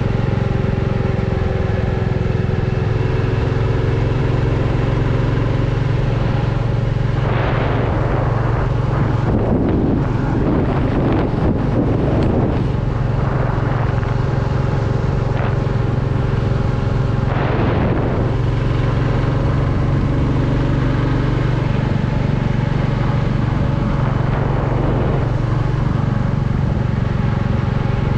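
Royal Enfield Classic 350's single-cylinder engine and exhaust running steadily under way at an even pace. There are a few brief rushes of noise about a quarter and two thirds of the way in.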